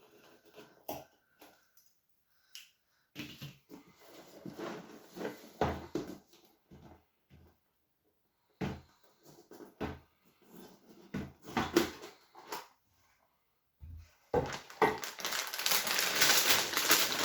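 A cardboard jigsaw puzzle box being opened and its contents handled: scrapes, taps and rustles in short bursts, then steady, louder rustling of the packaging in the last few seconds.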